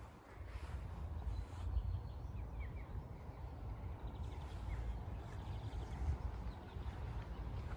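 Faint bird chirps and short trills now and then over a steady low rumble.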